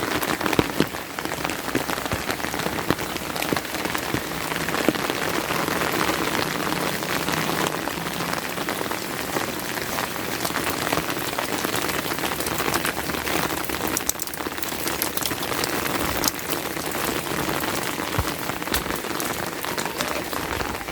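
Steady rain falling, an even hiss with many sharp single drop hits ticking through it.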